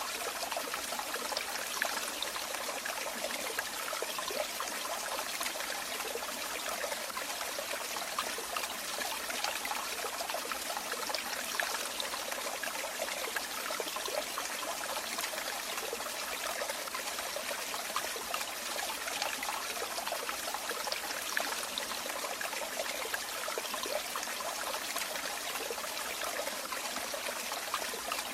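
Running water, a steady trickling stream with fine splashing and bubbling, even throughout.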